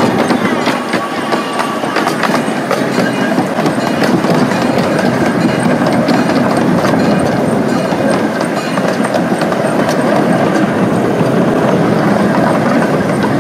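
A train car running along its track, heard from aboard: a steady rumble and rattle with many small clicks and knocks from the wheels and car.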